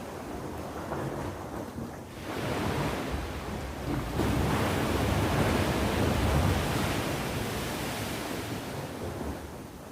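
Sea waves breaking and washing up the shore, one swell building a couple of seconds in and a larger wave breaking about four seconds in before the wash ebbs away.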